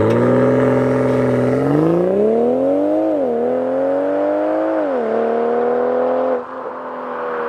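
BMW X3 M40i's turbocharged inline-six accelerating: its pitch climbs, drops sharply, climbs again and drops once more as it shifts up through the gears. About six seconds in it eases off, quieter, with a slowly falling note.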